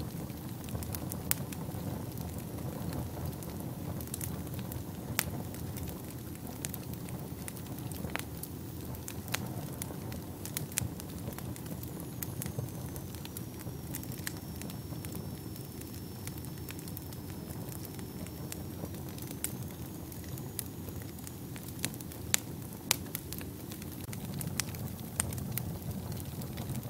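Wood fire burning in a fireplace: a steady low rumble of flames with frequent sharp crackles and pops. A faint thin high whistle runs for several seconds around the middle.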